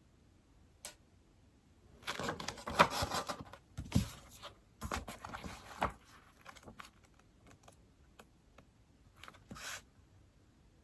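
Typing on an iPad keyboard: a single key click, then two quick runs of keystrokes about two and five seconds in, followed by a few scattered taps.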